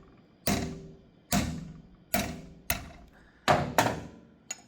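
Hammer blows driving packed bread into a motorcycle sprocket carrier's bearing bore, forcing the old bearing out hydraulically. About seven sharp metallic strikes come at an uneven pace, two of them quick together near the end, then a light tap.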